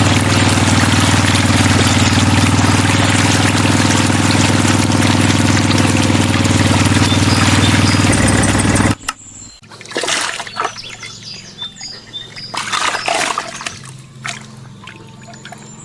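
Miniature diesel-engine water pump model running steadily while water pours and splashes from its outlet. It cuts off abruptly about nine seconds in, leaving birds chirping and a few light knocks.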